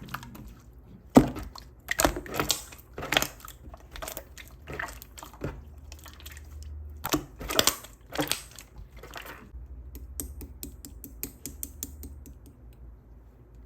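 Clear slime being squeezed and pressed by hand: a series of sharp, wet pops and clicks, then a quicker patter of small crackles from about ten seconds in that dies away near the end.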